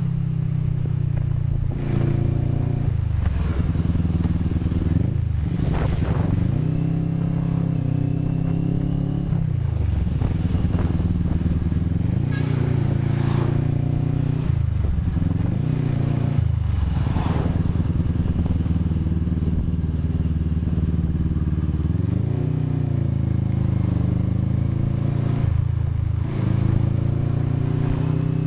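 CFMOTO NK400's parallel-twin engine running on the move, its pitch climbing and falling back several times as the bike accelerates and shifts gear.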